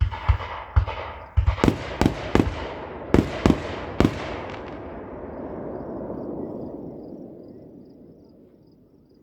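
Fireworks display: a quick string of about ten sharp bangs from aerial shell bursts in the first four seconds, then a long rolling rumble that slowly fades away.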